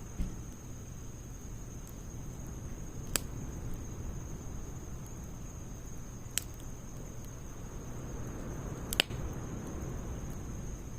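Wood fire burning in a Snow Peak stainless steel fire stand: a steady low rumble of flames, a dull knock just after the start, and three sharp crackling pops spread a few seconds apart.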